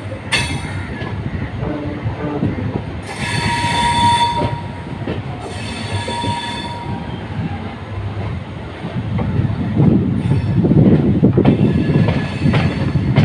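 Indian Railways passenger train running slowly over the tracks, heard from an open coach door. There is a steady rumble, with two high squeals about three and five seconds in, and the rumble and clatter of the wheels grow louder near the end as the train crosses the points.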